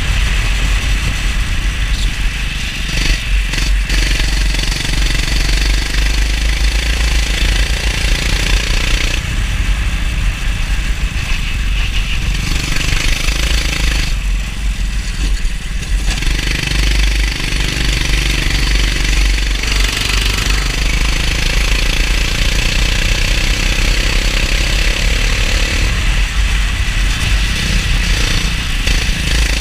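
Go-kart engine running at speed on the track, its pitch rising and falling with the throttle, over a heavy low rumble.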